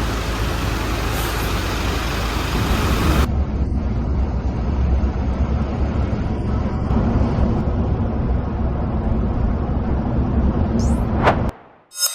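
Steady low rumble of an intercity bus underway: engine and tyre noise heard from inside the cabin. Near the end a short rising whoosh, then the sound cuts off abruptly.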